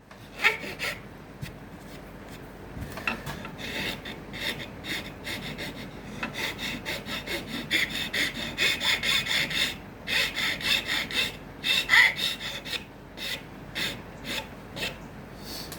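A hand file rasping across an acacia wood comb blank in quick back-and-forth strokes, about four a second, in bursts with short pauses between them.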